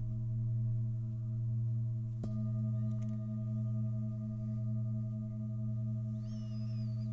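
Singing bowls ringing with a low, steady, gently wavering hum; one is struck about two seconds in, adding higher ringing tones. A short high chirp sounds near the end.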